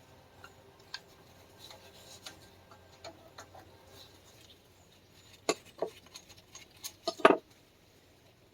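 Metal clicks and clinks of a bolt and hand tools being handled as a bolt is worked that will not thread in. There are a few sharper knocks about five and a half to seven seconds in, and the loudest comes near the end.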